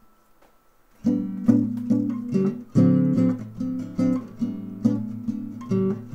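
Acoustic guitar strumming chords in a steady rhythm, the instrumental intro of a song, starting about a second in after a moment of near silence.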